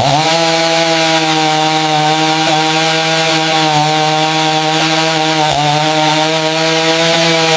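Chainsaw running at a steady high engine speed while cutting wood, with a brief dip in pitch about five and a half seconds in.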